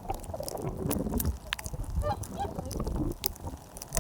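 Geese honking, several short calls one after another.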